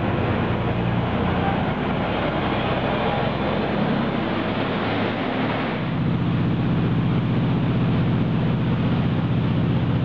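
Loud diesel engine of a Khlong Saen Saep express canal boat running, with a rushing wash over it; about six seconds in the engine note changes to a steadier, deeper hum with a fast pulse.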